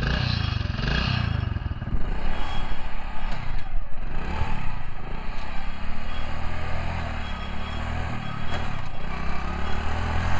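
Motorcycle engine running, revved up and down a few times between about two and five seconds in, then settling into a steady idle.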